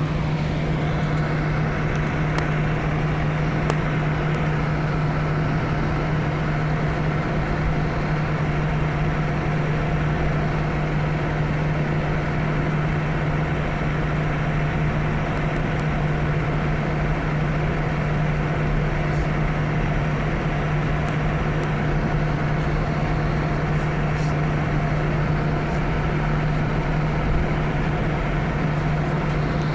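Steady cabin drone inside an Airbus A319 on the ground, a constant low hum of the aircraft's air supply and engines with a few faint ticks.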